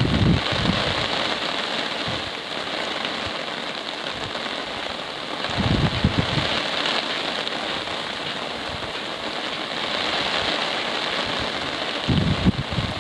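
Steady rain falling, an even hiss. Gusts of wind buffet the microphone with a low rumble at the start, about six seconds in, and again near the end.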